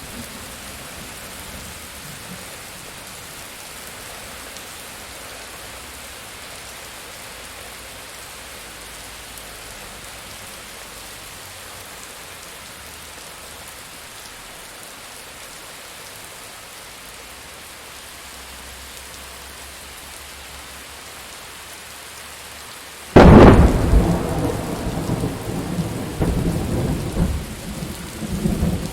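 Steady rain falling, then about 23 seconds in a sudden loud thunderclap that breaks into long rolling rumbles.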